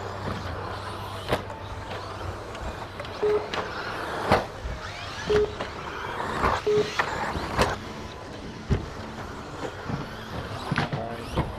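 Radio-controlled 2WD stadium trucks racing around the track: small motors whining up and down in pitch, with scattered sharp clacks and thuds. Three short beeps sound in the first half.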